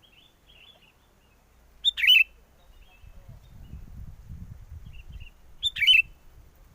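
Sooty-headed bulbul calling: two loud, short bursts of bubbly notes about four seconds apart, with fainter chirps around them. A low rumble of wind on the microphone runs under the second half.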